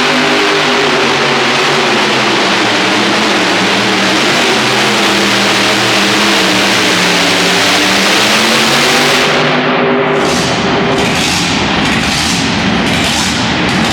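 Modified pulling tractor's engines at full throttle under load, the pitch sagging and rising as it works. About ten seconds in the steady engine note drops away, leaving a rough rumble with a pulsing high hiss.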